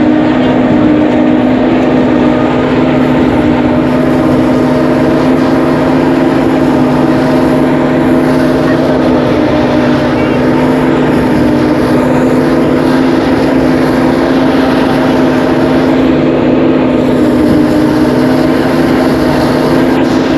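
Rice threshing machine running steadily, a loud, even mechanical drone.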